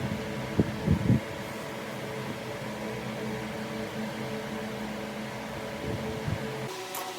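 A workshop machine's electric motor running with a steady hum, with a few short knocks about a second in and again near six seconds; the sound changes abruptly near the end.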